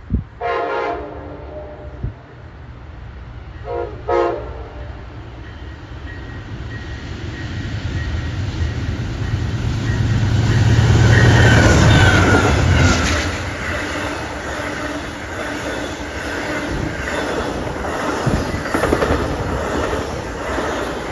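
A train horn sounds twice, once near the start and more briefly about four seconds in. The train then approaches and passes, its rumble building to a peak about halfway through, followed by the clatter of wheels over the rails.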